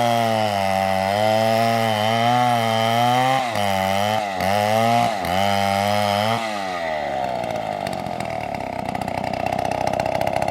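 Stihl chainsaw engine running at high revs, its pitch dipping sharply three times about halfway through. About six and a half seconds in it falls back to a lower, pulsing idle.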